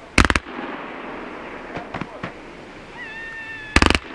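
A Dominator DMX5214 Color Falling Leaves Waterfall 25-shot, 30 mm fireworks cake firing. There are two loud clusters of rapid bangs, one just after the start and one near the end, with a few fainter pops between them.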